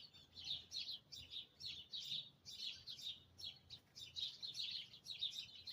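Steady, rhythmic high chirping, about three chirps a second, going on without a break.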